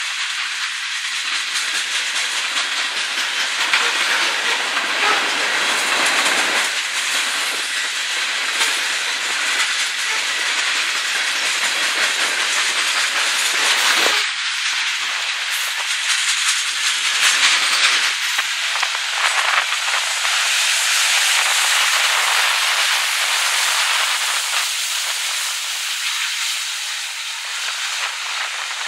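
Coal train hopper cars rolling past, a steady hiss of steel wheels on the rails with some clatter.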